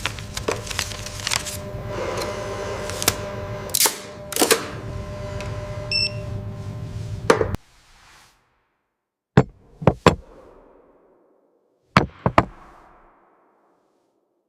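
A steady mechanical hum with a dense run of clanks and knocks, which cuts off suddenly about seven and a half seconds in. Then come two quick clusters of sharp knocks, three in each, each cluster followed by a short ringing tail.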